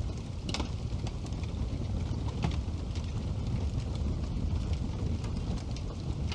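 Wood fire burning in a fireplace: a steady low rumble of the flames with scattered crackles and pops from the burning wood, a sharper pop about half a second in and another about two and a half seconds in.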